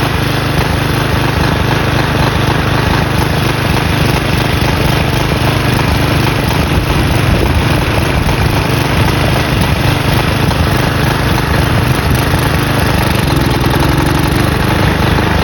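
Briggs & Stratton flathead lawn mower engine running steadily and loudly while used motor oil is fed into its intake.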